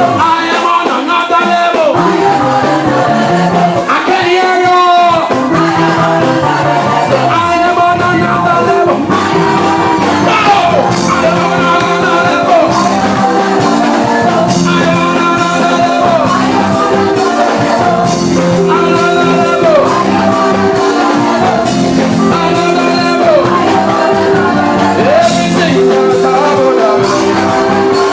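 Loud live gospel music: a band playing with singing over a steady beat.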